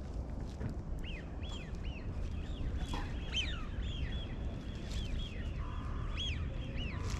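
Birds calling over and over: short, high chirps that sweep down in pitch, about two a second, starting about a second in.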